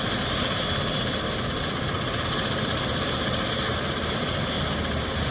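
Medical helicopter running on a rooftop helipad: a steady turbine whine and hiss with no change in pitch or level.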